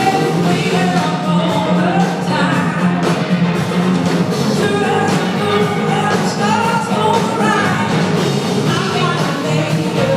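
Blues-rock band playing live, with a lead voice singing over the full band.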